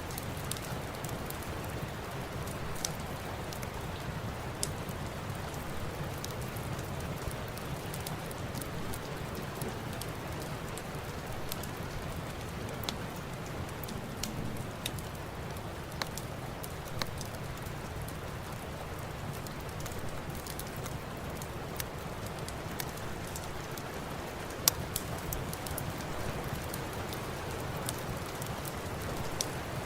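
Steady rain mixed with a crackling wood fire: a constant patter with scattered sharp pops and crackles, one louder pop near the end.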